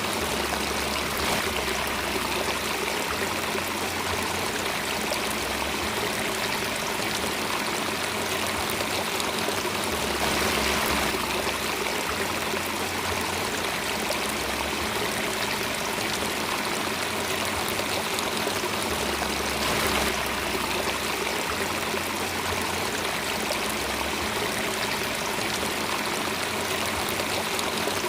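Steady running water of a stream, an even rushing and trickling with no break.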